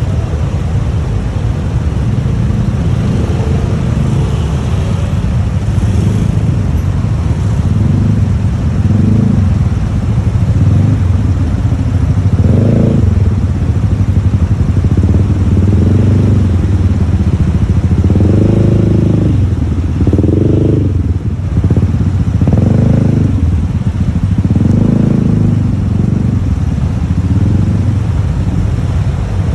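Motorbike running on a ride through city traffic, with a heavy, steady low rumble of wind on the microphone. A louder engine note swells and fades several times in the second half.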